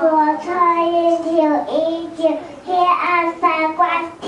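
Young children singing a song, with long held notes.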